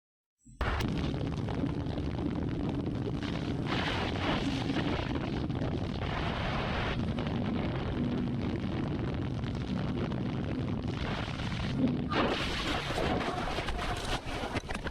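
Motorcycle riding, its engine running under heavy wind noise on an onboard camera's microphone, with a brief louder knock about twelve seconds in.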